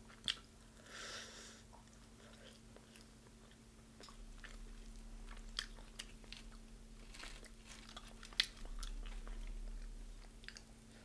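A person chewing and biting deep-fried chicken close to the microphone, with scattered small crunches and mouth clicks.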